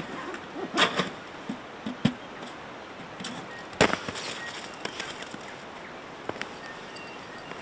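Irregular knocks, clicks and rustling of camping gear being handled, the loudest knock a little under four seconds in.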